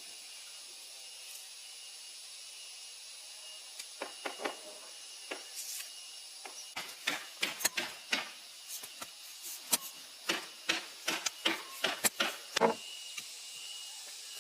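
A run of sharp, irregular clicks and knocks, as of small objects being handled and fitted together, starting about four seconds in and stopping near the end, over a steady faint hiss.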